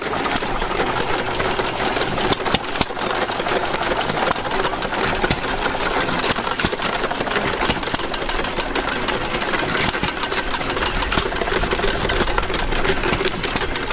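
Antique gas engine running steadily, with a rapid, even clatter of strokes.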